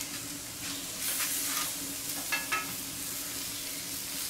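Black tiger shrimps and bratwursts frying on a hot steel fire plate around a wood fire: a steady sizzle, with a few light touches of metal tongs.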